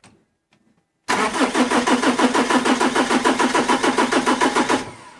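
Starter motor cranking a BMW M47 four-cylinder common-rail diesel for about four seconds, an even rhythmic chug of compression strokes at about seven or eight a second. The cranking stops abruptly without the engine catching: a failed start attempt during an injector back-leak test.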